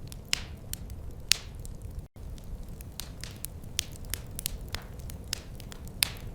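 Wood fire crackling: irregular sharp pops and snaps over a steady low rumble, with a few louder pops and a split-second dropout about two seconds in.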